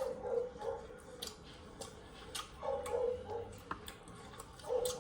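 Eating at a table: scattered light clicks and taps, with three short muffled sounds in the background.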